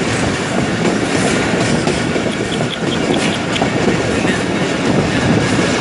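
Train running along the track, heard from on board: a steady rumble of wheels on rail with a run of light, evenly spaced clicks near the middle.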